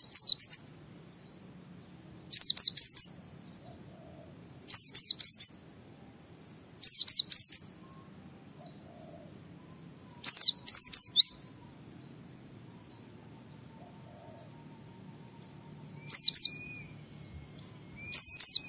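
A pleci (white-eye songbird) singing in its fast ngalas style: short bursts of quick, high, downward-sweeping chirps, repeated every two to three seconds, with fainter scattered chirps between them.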